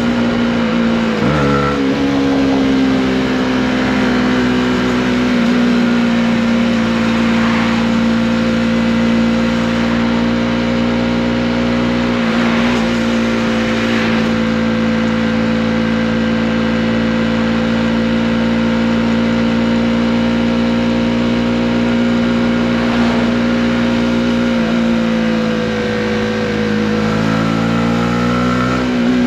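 Honda CB125R's single-cylinder four-stroke engine running at steady road-speed revs, with a brief dip in revs about a second and a half in and the revs climbing near the end.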